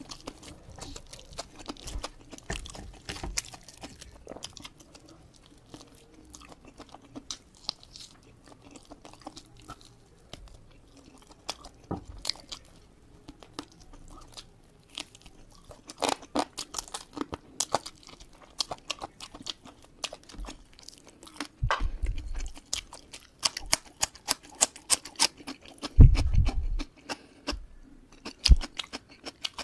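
Close-miked chewing of fried chicken: many short, wet mouth clicks and smacks. Now and then there is a crunching bite, the heaviest about 26 seconds in.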